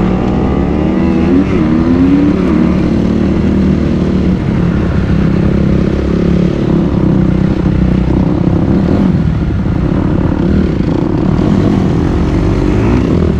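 Dirt bike engine running under way, its pitch rising and falling with the throttle over the first few seconds, then holding steadier.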